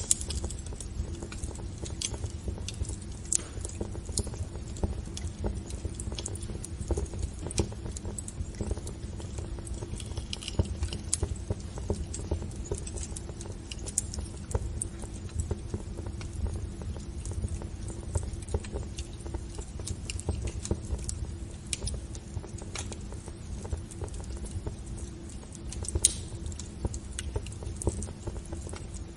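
Wood fire burning in a fireplace: irregular crackles and pops over a steady low rumble, with a sharper pop about 26 seconds in.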